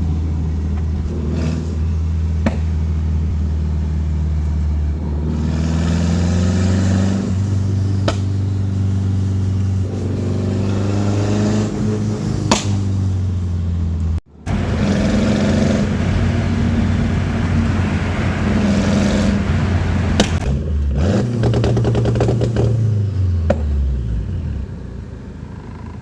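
Custom twin-turbo four-cylinder Honda Integra engine running and being revved, its pitch rising and falling several times. A few sharp clicks are heard, and the sound breaks off briefly about fourteen seconds in.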